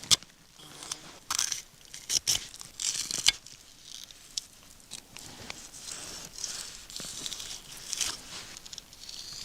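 Fillet knife cutting up a perch: a run of short, irregular scraping and tearing strokes as the blade works through the fish.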